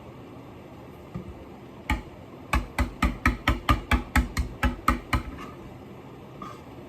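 Knife chopping on a cutting board: about a dozen quick, even strokes at roughly four a second, after a single knock.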